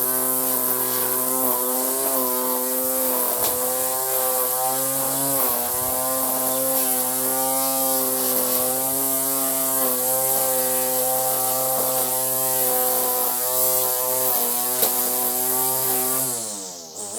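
Ryobi One+ 18V cordless string trimmer running steadily, its motor humming with a high hiss from the spinning line cutting grass along the lawn edge; the pitch wavers a little under load. Near the end it spins down with a falling whine.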